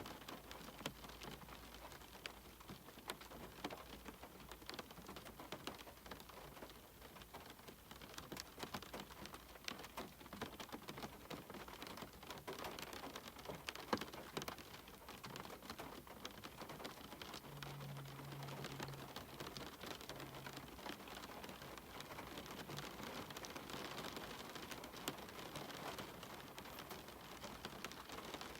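Steady rain falling, a soft even wash dotted with many distinct drops ticking and pattering.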